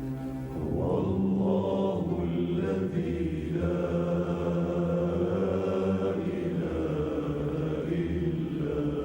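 Devotional chant: a voice singing long, drawn-out notes over a steady low drone, coming in about half a second in.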